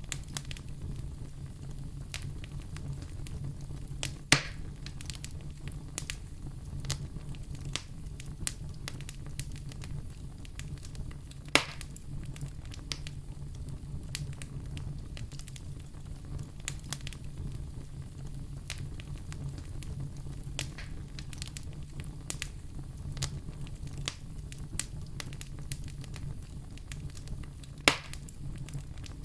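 Wood fire crackling in a fireplace: a steady low rumble under a constant scatter of small clicks, with three sharp, louder pops spread across the stretch.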